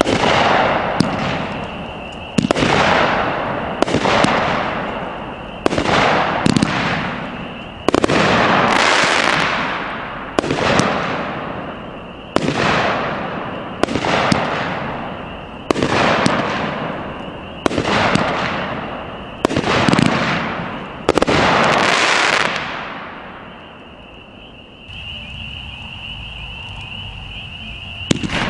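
Multi-shot consumer firework cake firing, about one shot every one and a half to two seconds, each with a sharp report and a hissing tail that fades. The shots stop a few seconds before the end, leaving a quieter steady background.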